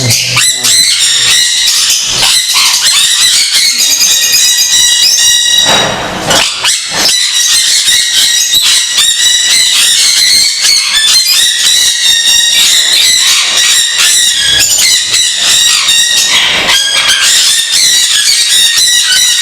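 A large aviary of parrots, sun conures among them, screeching and squawking all at once without pause: a loud racket of overlapping shrill calls.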